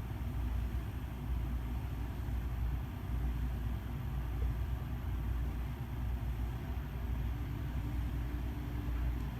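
Casablanca Spirit of Saturn ceiling fan running, a steady low hum and rumble from its motor and blades.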